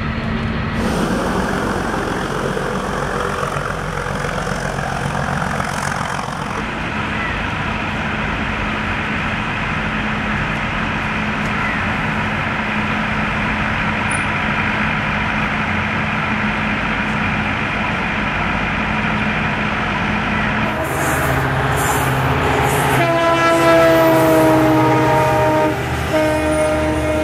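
A Nilgiri Mountain Railway train running, heard in a few spliced clips. Near the end the locomotive sounds a long, steady horn, then a shorter one.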